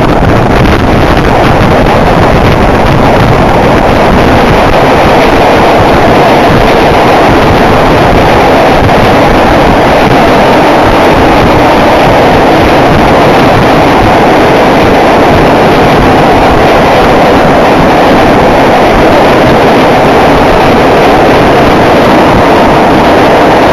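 Passenger train running at speed across a steel truss railway bridge, heard from the open door: a loud, steady rolling noise of wheels on track and girders.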